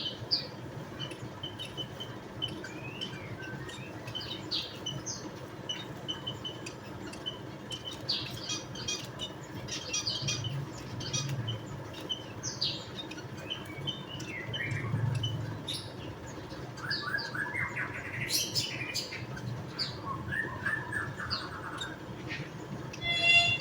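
Javan munias chirping: many short, high call notes scattered throughout, with a busier run of quick notes in the second half.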